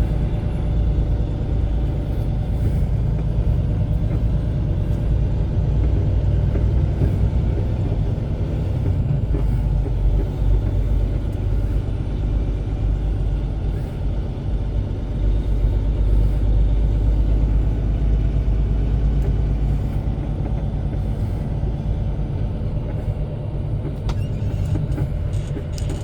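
Semi-truck's diesel engine running steadily at low speed, a low, even rumble.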